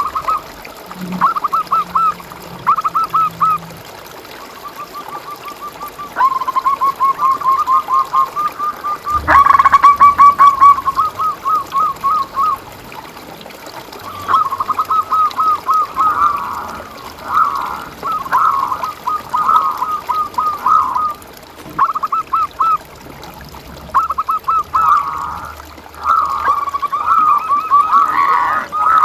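Zebra doves (perkutut) cooing in repeated rapid trilled phrases. The phrases come one after another throughout, sometimes overlapping, which suggests more than one bird.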